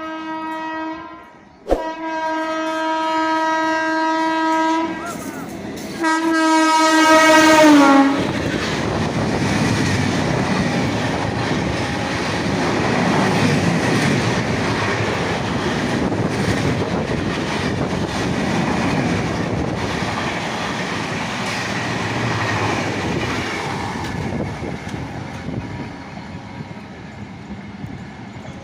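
Train horn sounding three blasts in the first eight seconds, the last one dropping in pitch as it ends. Then the train rolls past with a loud steady rumble and wheels clicking over the rail joints, fading near the end.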